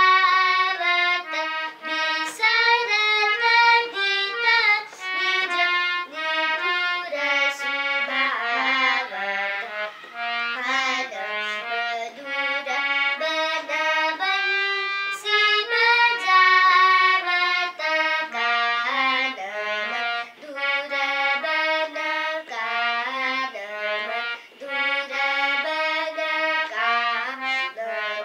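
Music: a stepwise melody of held notes on a reedy free-reed instrument.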